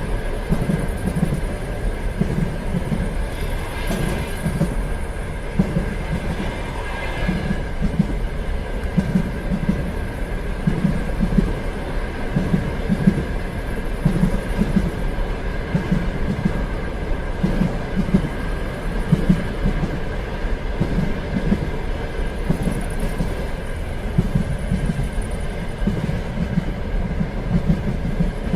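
Train running along the rails with a steady rumble and a regular clickety-clack of wheels over rail joints, with a faint steady whine above it.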